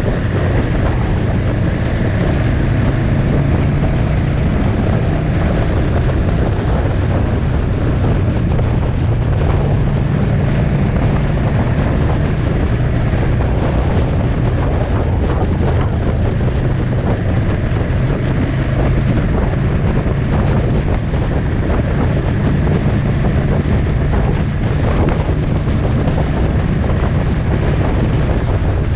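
Motorcycle engine running at a steady cruising speed under heavy wind noise on the microphone.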